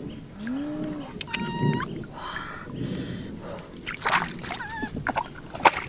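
A few short, pitched bird calls over water sloshing and splashing.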